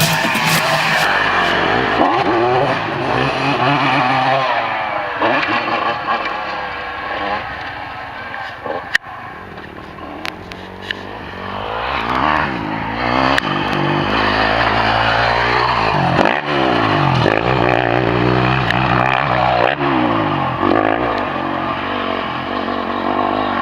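Two-stroke motocross bike engines, Honda CR125s, revving hard, pitch rising and falling again and again through the gears. A quieter stretch comes about nine to eleven seconds in.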